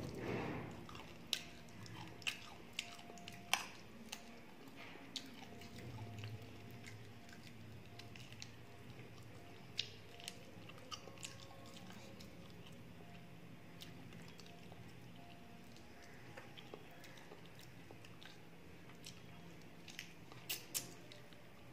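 Close-up chewing of a mouthful of rice and fried fish, with scattered sharp mouth clicks and smacks. They come most often in the first few seconds and again near the end.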